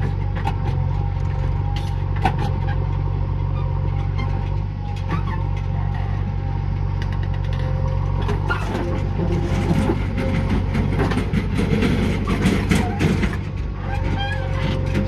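Diesel engine of a JCB backhoe loader running steadily, with a run of metallic clanks and rattling from about eight to thirteen seconds in as the machine works soil.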